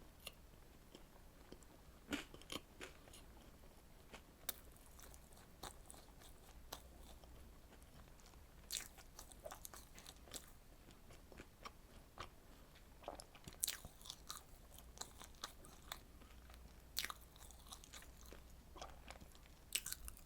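Close-miked eating of strawberry desserts: irregular biting and chewing with sharp wet mouth clicks and smacks, a few louder bites standing out.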